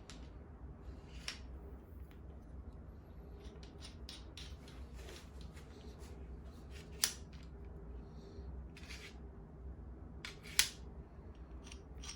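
Scattered small clicks and clinks of objects being handled, with two sharper clicks about seven and ten and a half seconds in, over a steady low hum.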